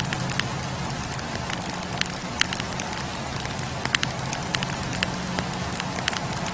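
Wood fire burning, with irregular sharp crackles and pops of burning logs, several a second, over a steady hiss of the flames.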